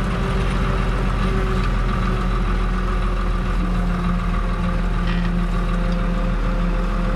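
Fiat 110-90 tractor's six-cylinder diesel engine running steadily while driving, heard from on board.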